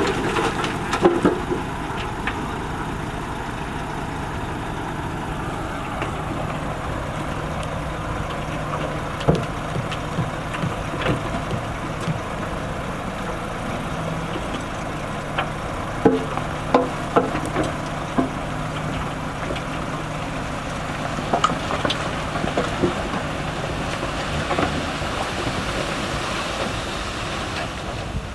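Diesel engine of a heavy road-building machine running steadily, with scattered sharp clicks and knocks over the hum.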